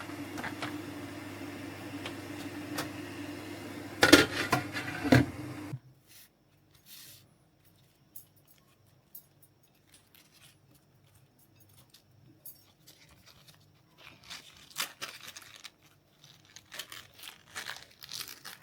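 Plastic wrapping crinkling and tearing as it is handled, over a steady machine hum that cuts off abruptly about six seconds in; after that only faint, scattered crinkling.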